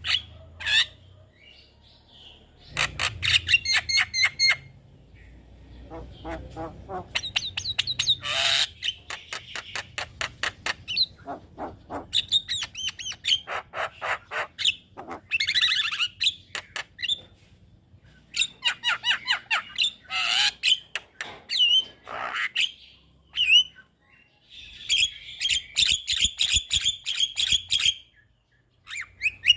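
Javan myna singing in repeated bursts of rapid rattling clicks and harsh notes mixed with whistled phrases, with short pauses between bursts.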